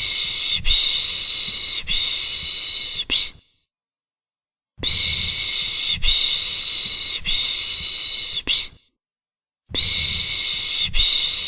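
A person shushing a baby with the 'piş piş' sound: long hissing 'shh' strokes, about three in a row, each a little over a second long. Twice the shushing stops for about a second of silence before it starts again.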